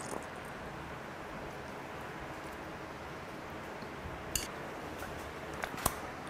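Close-up eating sounds: a man chewing a mouthful of steamed squid, faint against a steady background hiss, with a few sharp clicks a little past halfway and near the end.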